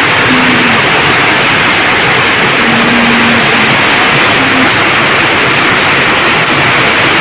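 Steady, loud downpour of rain, an even hiss.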